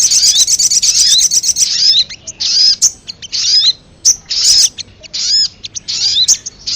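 Crimson sunbird (sogok ontong) calls played as a trapping lure: a dense, fast high chattering trill for the first second and a half, then short bursts of high chirps about once a second.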